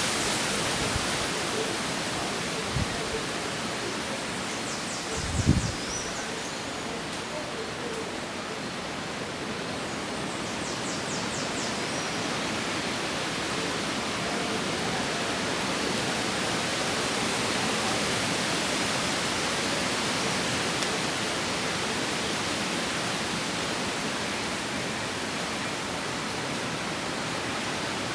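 Wind rushing through forest foliage, a steady leafy hiss. A brief low thump comes about five seconds in, and two short, faint, high rasping trills follow a few seconds later.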